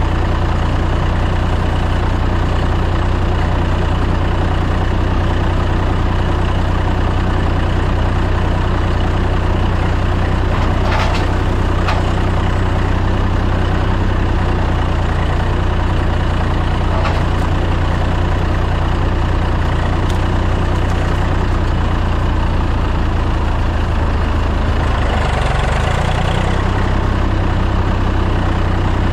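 Tractor engine running steadily with an even, low hum, with a few faint clicks and a brief shift in its note near the end.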